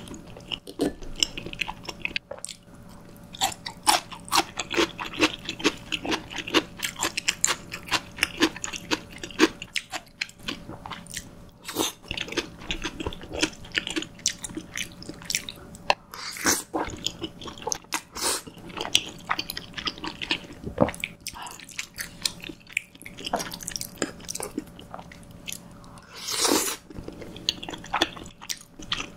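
Close-miked chewing of soft, saucy cream pasta: a steady run of short mouth clicks and smacks, with a few louder bites.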